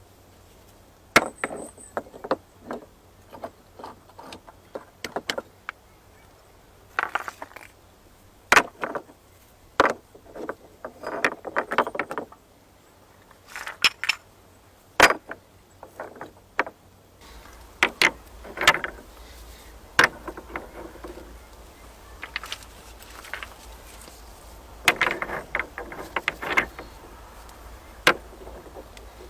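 Irregular sharp knocks, clicks and short clatters of hand work with wood and gear, with brief pauses between them.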